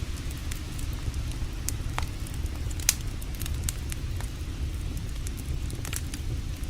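Campfire burning, wood crackling with scattered sharp pops, one louder pop about three seconds in, over a steady low rushing sound.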